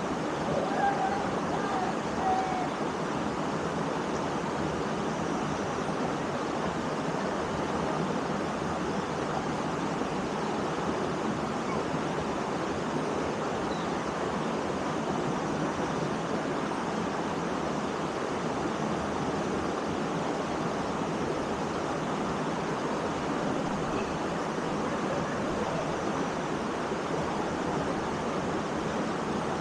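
Steady rushing of a waterfall pouring into a forest pool, an even wash of water noise.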